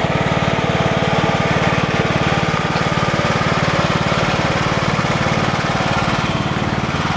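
Tractor engine running steadily under way, a fast, even run of firing pulses with a low hum.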